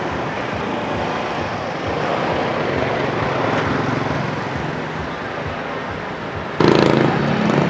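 Street traffic: a steady mix of motorbikes and cars going by. A louder engine sound cuts in suddenly near the end.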